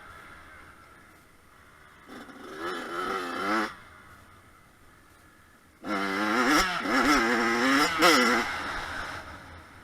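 Kawasaki KX100 dirt bike's two-stroke engine revving in two bursts of throttle, a shorter one about two seconds in and a longer, louder one from about six seconds, its pitch climbing and dropping repeatedly before it fades away.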